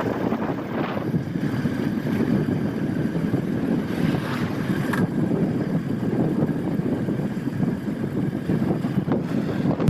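Steady wind buffeting the microphone over the running and road noise of a moving vehicle.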